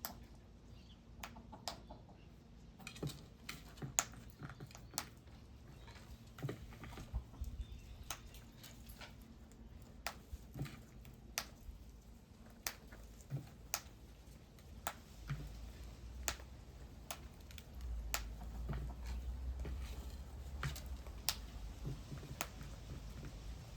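Irregular sharp taps and clicks, one or two a second, of small birds pecking at seed and hopping about. A low rumble comes in about two-thirds of the way through and fades before the end.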